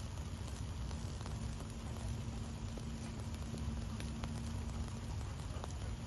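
Wood fire crackling in a fireplace: a steady low rumble of burning with frequent small, sharp pops and snaps scattered throughout.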